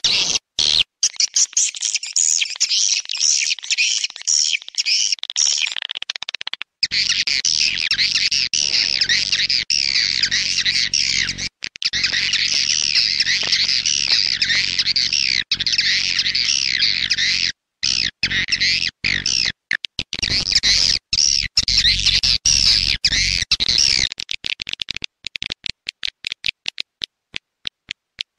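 Swiftlet call recording used to lure edible-nest swiftlets: dense, high twittering and chirping of many swiftlets, with a low hum underneath for much of it. About 24 seconds in, the chirping stops and gives way to a fast, even run of short clicks.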